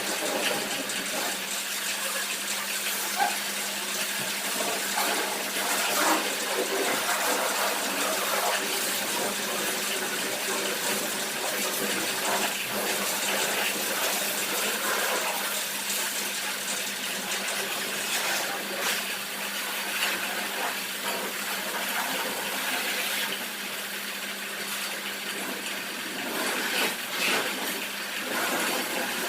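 Pressure-washer water jet spraying a car, a steady hiss over a constant low hum.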